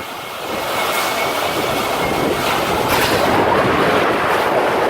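Tornado wind rushing past, a loud, steady, dense noise with no break, like the freight-train rumble a tornado is known for.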